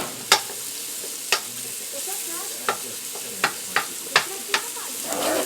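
Sliced cremini mushrooms sizzling in butter in a stainless steel pan while being stirred, the utensil knocking sharply against the pan about eight times.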